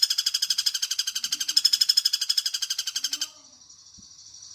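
Pelatuk bawang woodpecker giving its fast rattling trill call, about a dozen notes a second. The call cuts off abruptly about three seconds in, leaving a faint steady high hiss.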